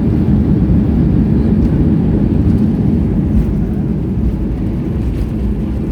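Airliner cabin noise during the landing roll: a loud, steady low rumble of engines and runway that gradually eases as the aircraft slows.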